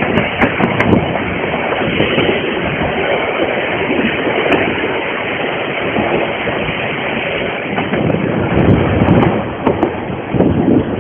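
Harz narrow-gauge steam train on the move: a steady running-train noise with wind on the microphone and a few sharp clicks near the start.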